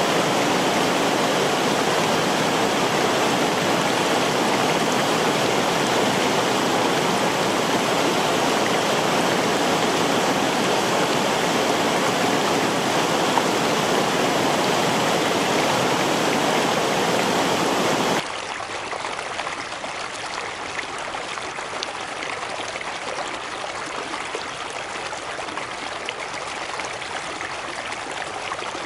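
Steady rush of a waterfall and river water. About two-thirds of the way through it cuts abruptly to a quieter, gentler stream flowing with faint splashes.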